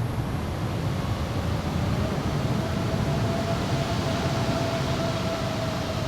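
Jet airliner engines running: a steady rumble with a faint held whine that comes in about a second in.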